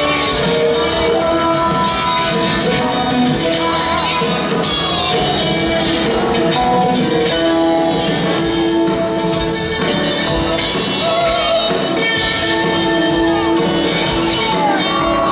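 Live rock band playing in a large hall: electric guitar and drums under sustained held notes, with singing.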